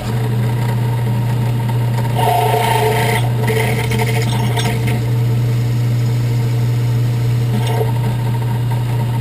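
Electric drill motor switched on and running steadily, with the bit cutting into aluminum bracket stock for a few seconds from about two seconds in.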